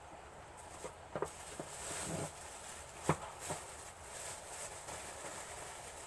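Scattered light clicks and knocks, as when small objects are handled and set down, over a faint steady hiss; the sharpest knock comes about three seconds in.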